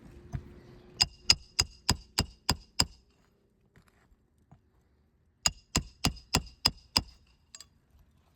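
Roofing hammer driving a roofing nail through asphalt shingles: two runs of sharp, evenly paced blows, about three a second, seven and then six strikes, each with a short metallic ring.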